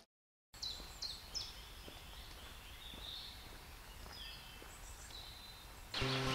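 Quiet woodland ambience with small birds calling: a few short, high, falling notes about half a second apart soon after a brief silence, then scattered chirps. Background music comes in near the end.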